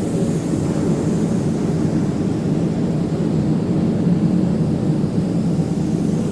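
Steady low rumble of industrial machinery running without a break, with a faint hiss above it.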